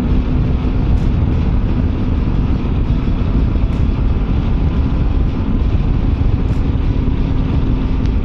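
Motorcycle under way at a steady speed: engine running under heavy wind rush on the microphone.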